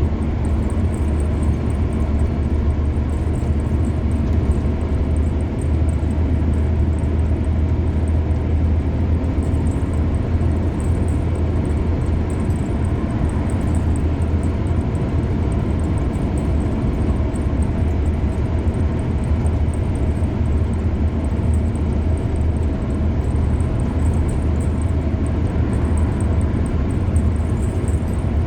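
A car driving steadily at speed on a highway: a constant low rumble of engine and tyres on the road surface.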